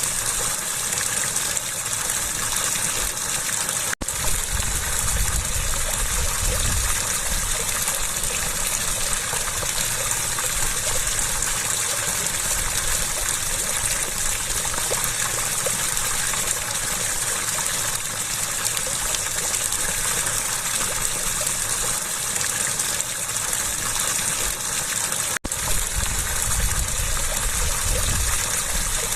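Water rushing steadily and evenly, with no change in strength. Two split-second gaps interrupt it, about four seconds in and near the end.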